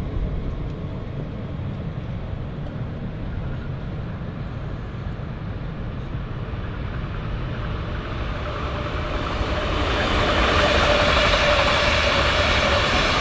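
A train approaching on the line. Its rolling noise builds up about ten seconds in and stays loud, with a faint steady tone in it. Before that there is only a low rumble.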